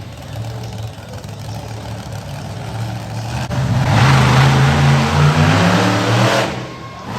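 Monster truck engine running, then revving hard from about four seconds in, its pitch climbing, before dropping away shortly before the end.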